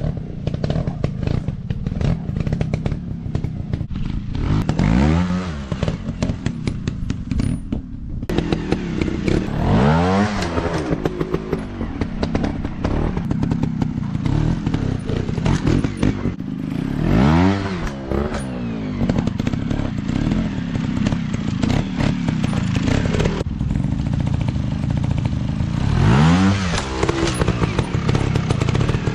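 Dirt bike engine running and revving up four times, each rev rising sharply in pitch and falling back, amid steady clatter and knocks.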